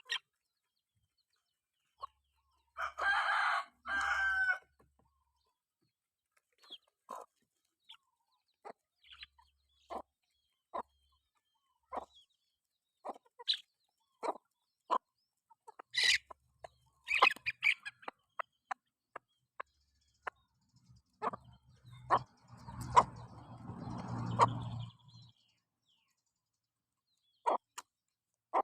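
Chickens clucking in short, scattered calls, with a rooster crowing once about three seconds in. A low rumbling noise lasts a few seconds near the end.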